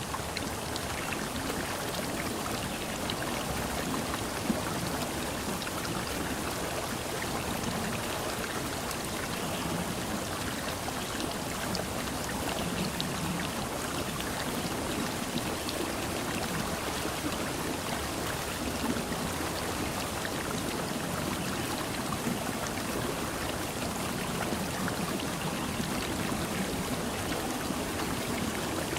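Steady rush of running water, an even noise with scattered faint ticks.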